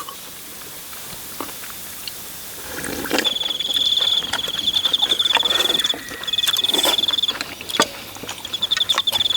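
A cricket trilling: a high, rapid pulsed chirp that starts about three seconds in and comes in runs of one to three seconds with short breaks. There are a few light clicks as well.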